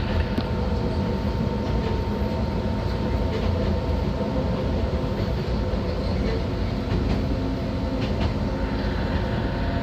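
Enoshima Electric Railway (Enoden) electric train running, heard from inside the front car: a steady low rumble of wheels on rail with a faint steady whine and a few brief clicks.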